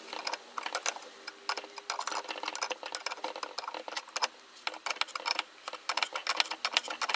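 Quick, irregular metallic clicks, several a second, from a hand tool turning a puller that draws a Honda Dio crankshaft into its crankcase bearing.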